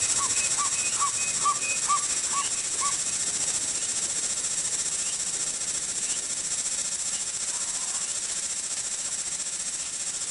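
A bird calling a run of short, even notes, about two a second, that stops about three seconds in, over a steady high hiss.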